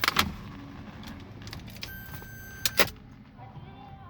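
Clicks and knocks of someone handling the car's keys and interior before starting it, with a sharp click near the start and another about two and a half seconds in. A steady electronic warning tone sounds for about a second in the middle, typical of the car's key or seat-belt warning buzzer.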